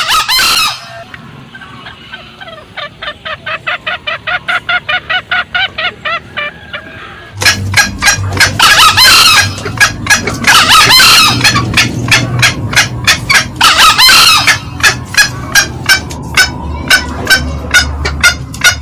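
Green junglefowl calling: one short loud call at the start, then a long run of rapid cackling clucks, about four a second, which turns much louder and denser a third of the way in, with heavier bursts of calling before settling into steady clucks.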